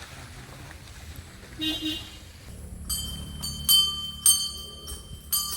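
Small brass puja hand bell rung in a quick run of strokes, starting about three seconds in, its high ringing tones overlapping.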